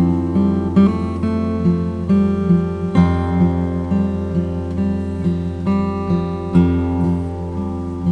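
Background music: acoustic guitar playing, plucked and strummed chords changing about once a second.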